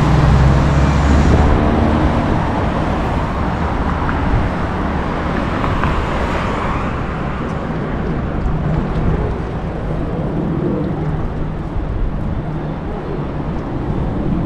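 Road traffic heard while cycling: a motor vehicle's engine running close by in the first couple of seconds, then a steady rush of traffic and wind noise.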